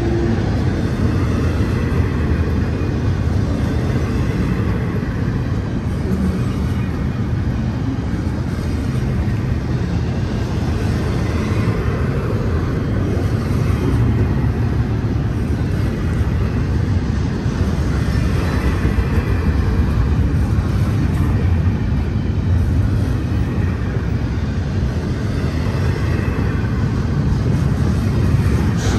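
BNSF double-stack intermodal freight train's container-laden well cars rolling past close by: a steady, loud rumble of steel wheels on the rails.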